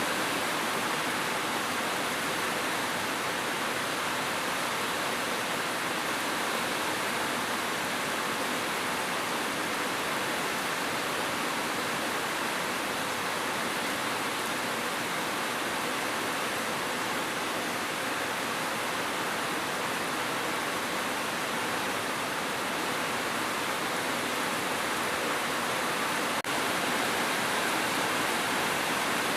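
Steady falling rain, an even rushing hiss with no breaks, and one brief click near the end.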